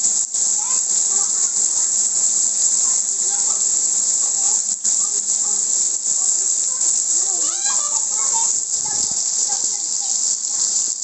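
Steady hiss of falling rain, with faint children's voices in the background about two thirds of the way through.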